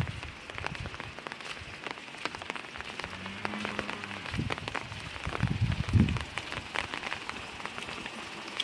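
Hail and rain falling, with a steady patter and many sharp ticks of hailstones striking the ground and plants. There are a few dull low thumps about six seconds in.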